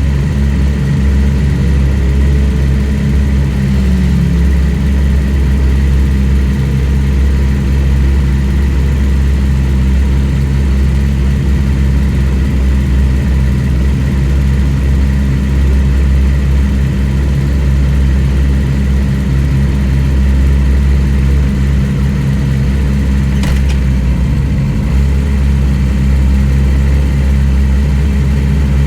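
Middleweight superbike race motorcycle engine idling steadily at a constant pitch, with one faint click near the end.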